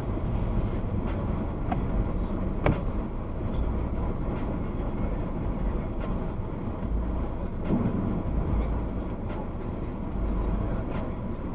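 Steady low rumble of a car driving, with a single sharp knock about two and a half seconds in.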